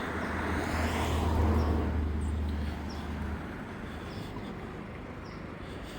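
LiftMaster LA500 swing-gate operator's arm motor running as it swings the gate open, a steady low hum that stops about three and a half seconds in.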